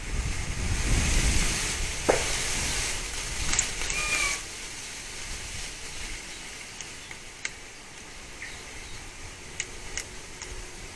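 Wind gusting across the microphone, a low rumble with hiss, strongest for about the first four seconds, then easing to a quieter steady rush with a few faint clicks.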